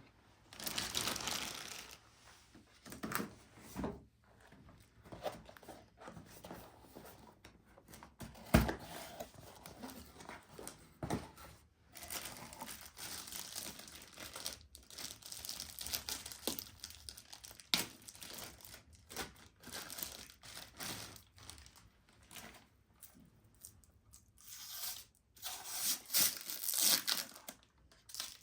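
Crinkly wrapping being handled, crumpled and torn in irregular bursts, with scattered small clicks and one sharp knock about eight and a half seconds in.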